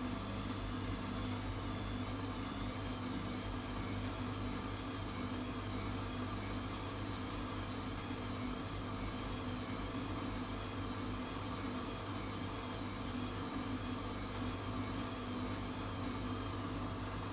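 ATLANT washing machine running: a steady motor hum and whine, with a high whine that wavers regularly in pitch as the drum turns.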